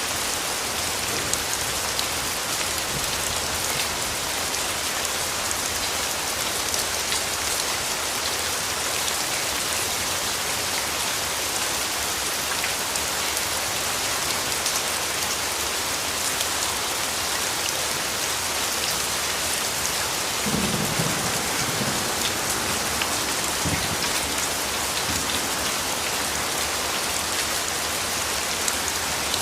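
Steady rain falling with scattered individual drops. A short low rumble of distant thunder comes about two-thirds of the way through, with a weaker one a few seconds later.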